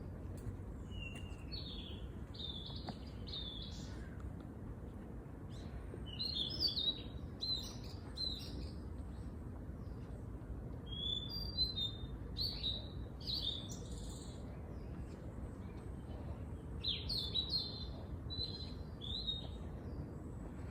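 A small songbird singing in bouts of quick high chirps and short trills, four phrases a few seconds apart, over a steady low background rumble.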